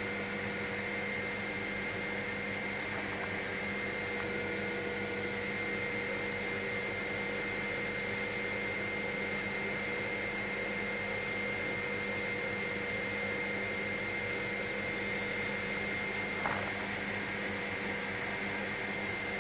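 Helicopter in cruise flight heard from inside the cabin: a steady hum with a few constant whining tones from the engine and rotor drive.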